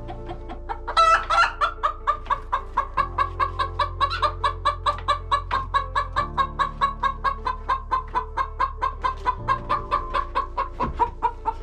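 Laying hens clucking in a fast, even run of about four or five clucks a second, starting about a second in and slowly dropping a little in pitch.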